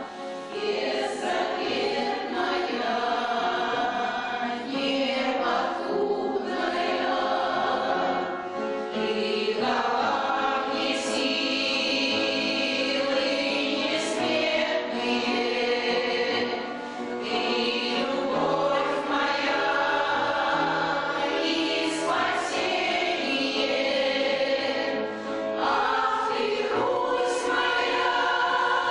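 A choir of older voices singing a song in Russian, in phrases a few seconds long with brief breaths between them.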